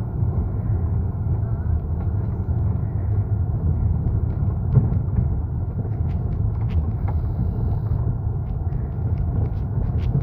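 Steady low rumble of a vehicle on the move, with a few faint clicks in the second half.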